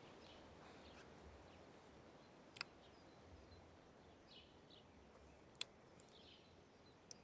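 Near silence: faint outdoor background with occasional short bird chirps, broken by two sharp clicks about three seconds apart.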